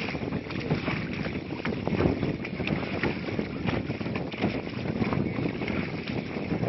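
Small motorboat under way at sea: a steady rush of engine and water noise, with wind buffeting the microphone.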